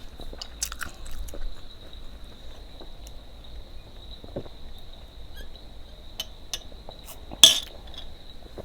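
Close-up mukbang eating of chow mein: soft chewing with light clicks of a utensil against the dish, and one sharp clink about seven and a half seconds in. A faint steady high-pitched whine runs underneath.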